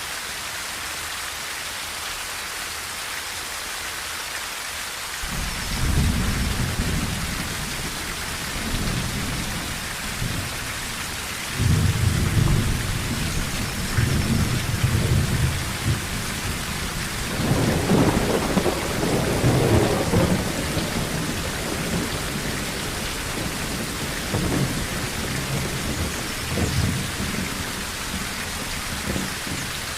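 Steady rain drumming on a tin roof, with rolling thunder starting about five seconds in. The thunder swells in several deep peaks, the biggest a little past the middle, then eases off near the end.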